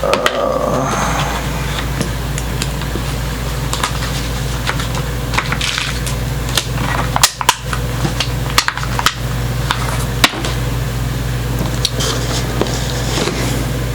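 Scattered clicks, clinks and light knocks of small metal guitar-tuner hardware and its packaging being handled, busiest in the middle, over a steady low hum.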